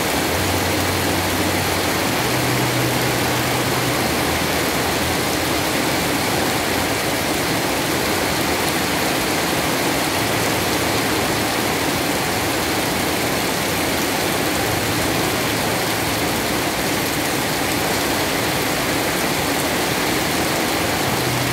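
Heavy rain pouring down in a steady, even downpour. A faint low hum comes and goes underneath it.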